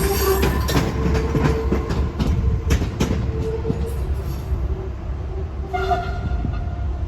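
A train running through the station, its wheels clicking over rail joints and squealing against the rails over a steady rumble. A short pitched tone sounds about six seconds in.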